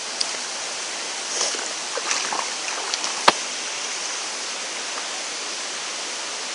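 Steady rush of water from a waterfall and its stream current. A few short splashes come around the middle, and there is one sharp click a little after three seconds.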